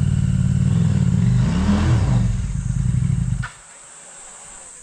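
Small motorcycle engine running loudly, its pitch rising and falling briefly about two seconds in, then cutting off abruptly with a click about three and a half seconds in.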